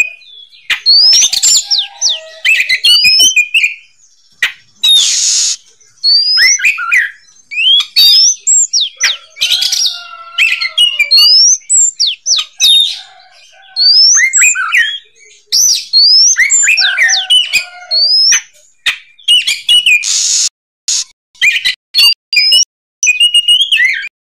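Oriental magpie-robin (kacer) singing loud, varied phrases of quick rising whistles mixed with a few harsh rasping notes, with short pauses between phrases.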